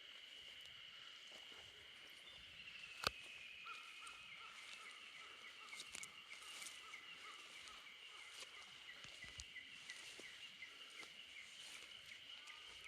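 Faint outdoor animal chorus: a steady high-pitched drone with a long series of short repeated chirps, about four a second. One sharp click comes about three seconds in.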